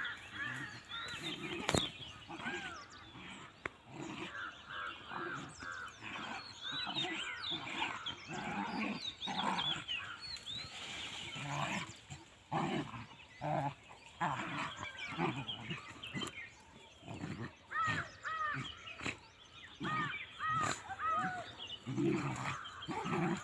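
Indian street dogs scuffling in a fight or play fight: repeated short growls and snarls mixed with high arching yelps and whines, with one sharp knock about two seconds in.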